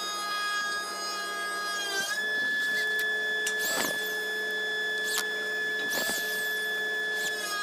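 An electric power tool's motor running steadily, its pitch dipping briefly about two seconds in as it takes load, with a few short strokes of the tool working wood.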